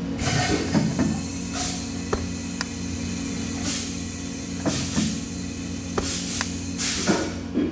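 Steady machine hum in a welding shop, broken by about six short hissing bursts and a few sharp clicks.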